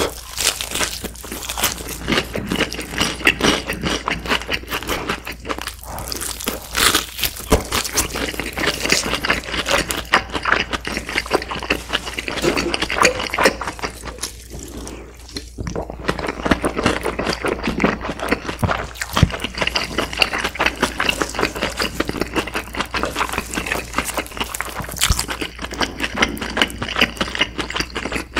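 Close-up chewing of crispy fried chicken: crackling bites of the coating and wet mouth sounds in a dense run of small crunches. It goes briefly quieter about halfway through while he sips soda from a can.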